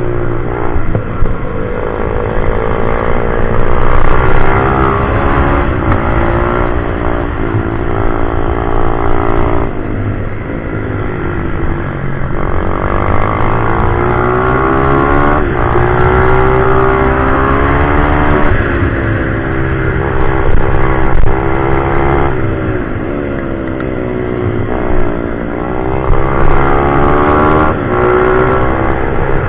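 Pit bike's single-cylinder engine revving hard and dropping off again and again, its pitch climbing through the gears and falling away for the corners, as on a lap of a track.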